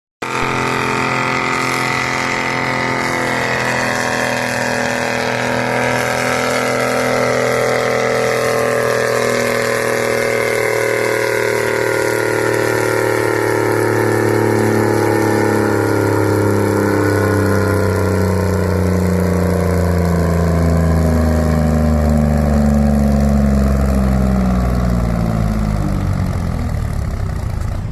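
Competition pulling tractor's engine running hard at high revs, its pitch falling slowly and steadily as it drags the weight-transfer sled down the track, then dropping away near the end as the run finishes.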